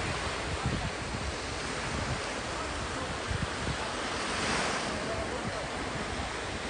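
Sea waves washing onto the shore, with wind buffeting the microphone; one wave swells louder about four and a half seconds in.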